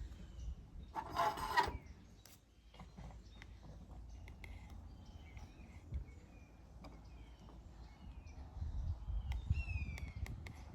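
A short scraping, rustling handling sound about a second in as corn is put into a dish, then small birds chirping with short repeated notes and one bird giving a falling call near the end, over a low outdoor rumble.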